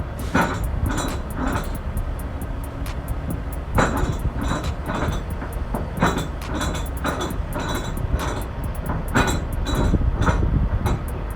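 Heavy vehicle rumbling, with frequent rattling metal clanks over a steady low drone.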